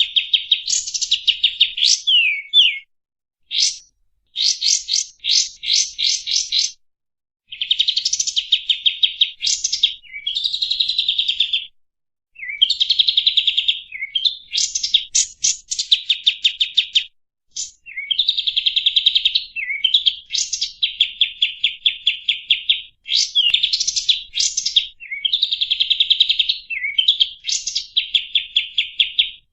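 Songbird tutor recording ('masteran') of fast rolling trills: rapid runs of repeated high notes in phrases a few seconds long, separated by short gaps, several phrases ending in quick falling slurs.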